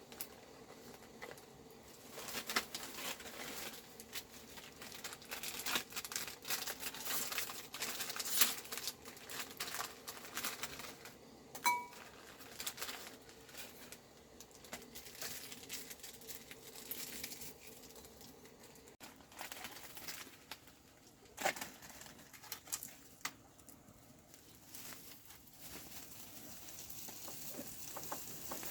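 Intermittent rustling and crinkling with scattered light clicks and knocks of things being handled, plus one brief ringing clink about twelve seconds in.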